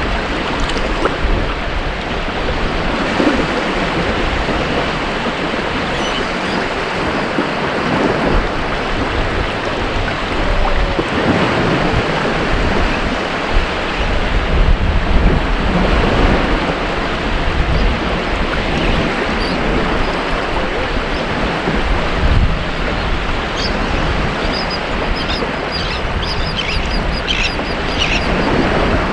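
Ocean surf washing on a beach: a steady rush of breaking waves that swells and eases every few seconds. Short high bird calls join in over the last few seconds.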